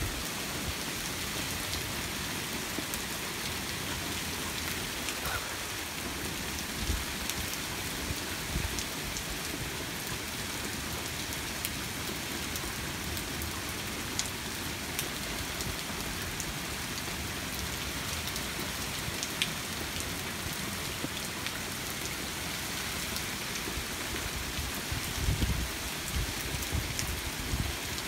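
Heavy rain falling steadily, a dense even hiss with scattered drop ticks. A short low rumble comes near the end.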